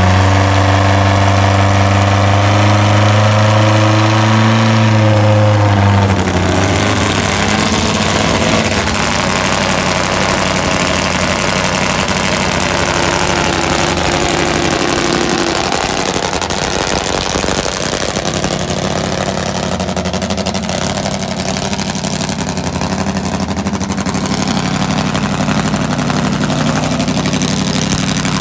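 Top Fuel nitro drag motorcycle engine: a steady pitched drone for about the first six seconds, then a change to a rougher, uneven idle that runs on steadily.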